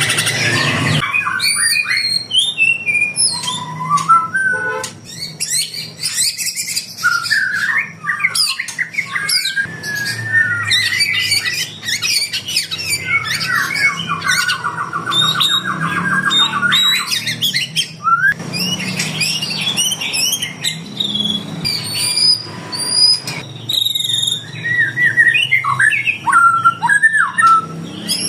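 Many caged songbirds of mixed species calling and singing over each other, a dense jumble of chirps, whistles and squawks, with a fast, even trill around the middle.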